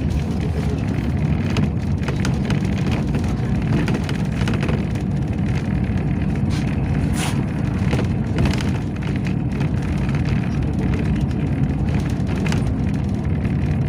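Inside a moving Yutong ZK6118HGA city bus: steady low engine and road rumble, with scattered short rattles and clicks.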